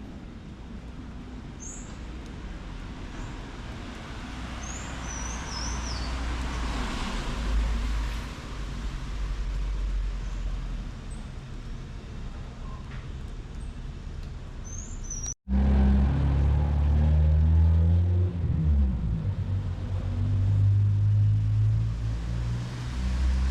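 City street traffic: a steady low rumble of road vehicles with a few short bird chirps. About two-thirds of the way in, the sound cuts out for a moment, then a much louder, close engine hum takes over, its pitch shifting as the vehicle moves.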